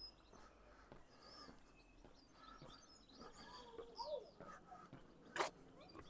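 Faint scattered bird chirps and tweets over quiet outdoor ambience, with one sharp click about five seconds in.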